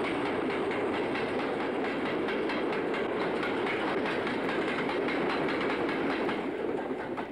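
Freight train passing close by at speed, its wagon wheels clattering over the rail joints in a fast run of clicks. The noise drops away near the end.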